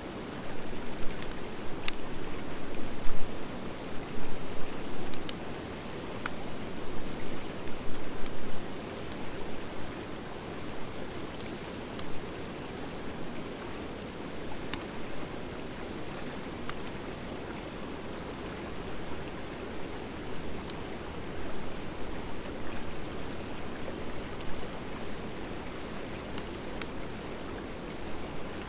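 Wood fire of driftwood and dry hardwood burning: a steady low rush of flame with sharp crackles and pops, frequent and loud in the first several seconds, then sparser.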